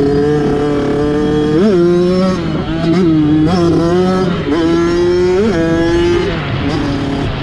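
Kawasaki dirt bike engine running at a steady speed, blipped up in short revs about four times, then settling to a lower, quieter note near the end.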